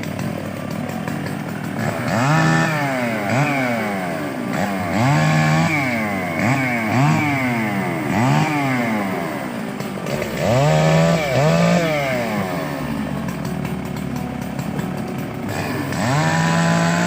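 Two-stroke chainsaw running at idle, then revved again and again, its pitch rising and falling with each burst of throttle, and held high near the end.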